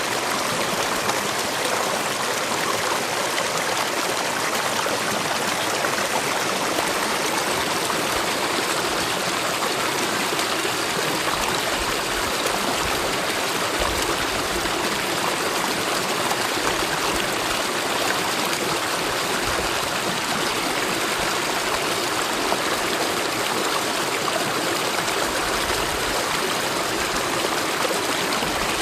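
Mountain valley stream flowing steadily, an even, unbroken rush of water.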